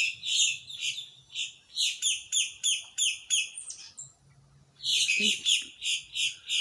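Flock of blackbirds (grackles) giving rapid, repeated high calls, each a short downward sweep, about three or four a second, with a brief pause about four seconds in. These are the zapping calls that have earned the birds the nickname "lasers".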